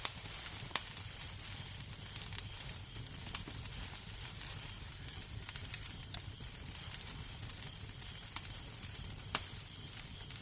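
Wood fire crackling in a fireplace: a steady hiss over a low rumble, with frequent small pops and a handful of sharper, louder cracks.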